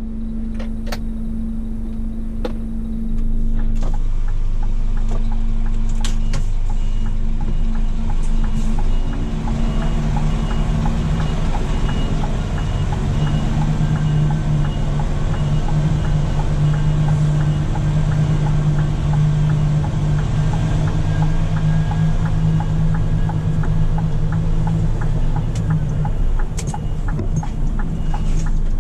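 Scania P400 truck's diesel engine running steadily, growing louder about three seconds in, with a faint high-pitched pulsing beep alongside from about six seconds in.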